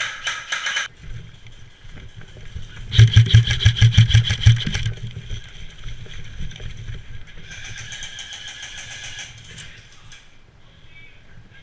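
Airsoft electric gun (AEG) firing on full auto: a rapid run of shots, about ten a second, for under two seconds, followed a few seconds later by a fainter burst.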